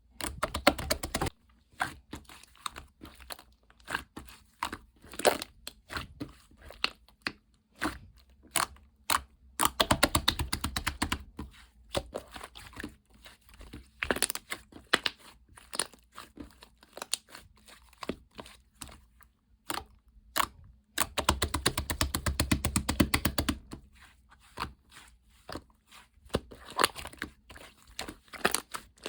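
Slime being squished, folded and pressed by hand, with a steady run of sharp clicks and pops. Three times it breaks into a few seconds of dense crackling as air pockets in the slime are squeezed out.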